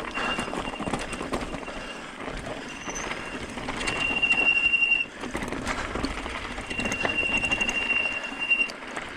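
Hyper 29er e-bike's brakes squealing under braking on a descent, a high steady squeal that comes and goes, held longest twice in the second half, over the rattle and tyre noise of the bike on rough ground. The squeal comes from brakes contaminated by washing the bike without cleaning them afterwards with alcohol or brake cleaner.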